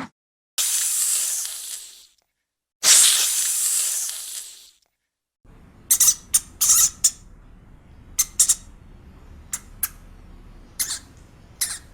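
An animal hissing twice, each hiss lasting about a second and a half. Then comes a run of about a dozen short, high-pitched squeaks from a small animal, spaced irregularly.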